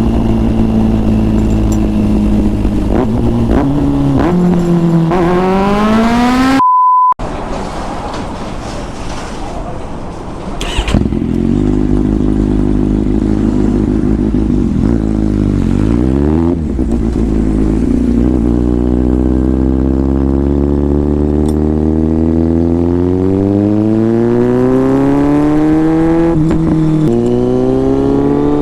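Inline-four motorcycle engine under way, accelerating and shifting gears: its pitch climbs, drops at each shift, then climbs in a long steady pull near the end. About a quarter of the way in, the engine is briefly cut by a short beep tone.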